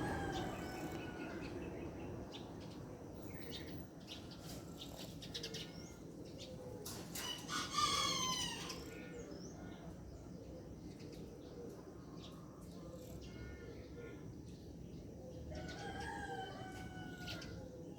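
A rooster crowing: one loud crow with a falling pitch about eight seconds in, and a fainter crow near the end.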